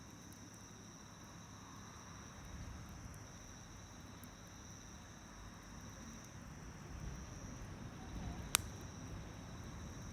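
Wood campfire burning with a soft low crackle and one sharp pop near the end, under a steady high-pitched chorus of crickets.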